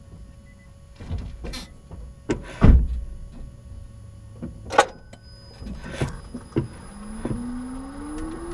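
A 2015 Nissan Leaf 24 kWh's front end squeaking in short, separate bursts, about eight in all, the loudest about two and a half seconds in. This is a new noise that the owner puts down to the front suspension. Near the end a low whine begins, rising in pitch.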